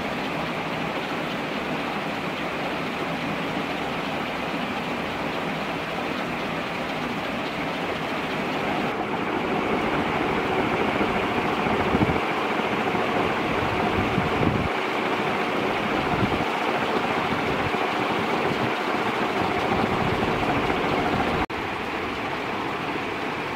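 Canarm CP56 140 cm ceiling fan with three metal blades running at high speed: a steady rush of moving air, with wind buffeting the microphone. The air noise grows louder about a third of the way through, and the sound changes abruptly near the end.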